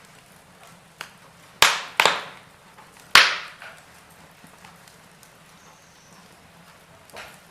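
Wood fire burning in a fireplace: five sharp crackling pops, each dying away quickly, the loudest about three seconds in, over a faint steady hiss.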